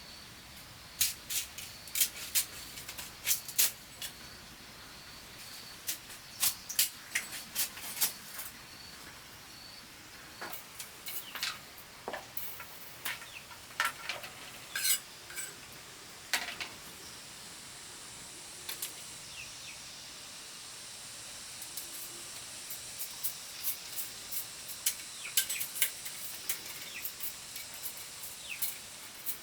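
Irregular sharp clicks and taps in quick clusters as bamboo is worked by hand, over a steady high hiss that grows stronger about halfway through.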